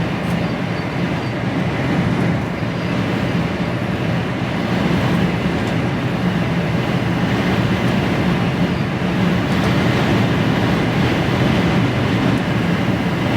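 Steady drone inside a moving HGV truck cab: engine and road noise with storm wind against the cab.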